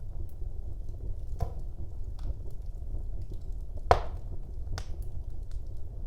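Wood fire burning in a fireplace: a steady low rumble of flames with a few sharp crackles and pops, the loudest snap about four seconds in.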